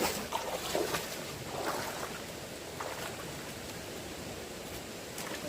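Fast-flowing water rushing steadily, with a few short splashes in the first half.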